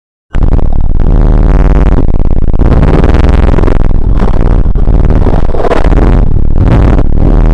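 A very loud, distorted droning rumble with a heavy low hum and wavering pitched tones, cutting in abruptly just after the start.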